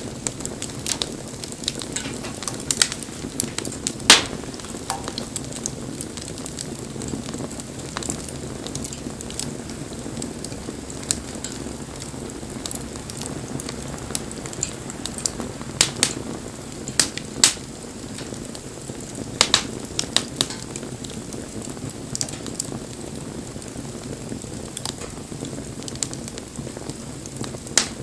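Wood bonfire burning: a steady low rush of flame with scattered sharp crackles and pops, a loud pop about four seconds in and a cluster of pops between about sixteen and twenty seconds.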